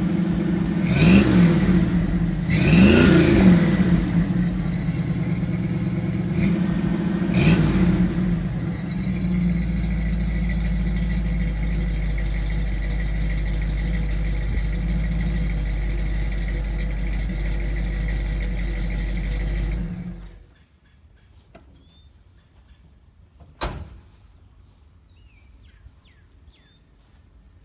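1981 Ford F100's factory 4.2-litre V8 running through a single-outlet Thrush welded muffler: three quick revs in the first eight seconds, each settling back to a steady idle, then the engine is shut off about twenty seconds in. A single sharp knock a few seconds after it goes quiet.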